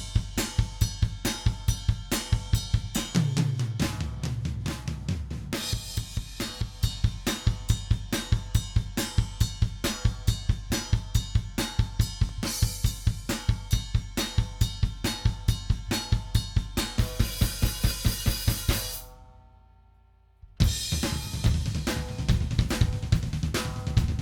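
Recorded rock drum kit track playing back: a fast, dense run of kick, snare, hi-hat and cymbal hits, as heard through an FMR Audio RNC hardware compressor. About three-quarters of the way through, the playing stops and leaves a ring that fades out, then the drums start again about a second and a half later.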